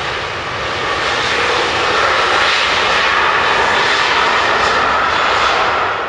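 Boeing 737-800's CFM56-7B jet engines at takeoff thrust: a loud, steady roar that cuts off abruptly near the end.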